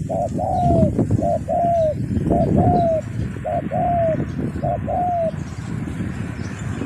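A dove cooing five times at a steady pace, each call a short note followed by a longer falling note, over a low rumble of wind on the microphone.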